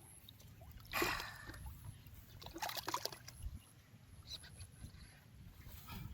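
Water splashing and sloshing in a few short bursts, the loudest about a second in.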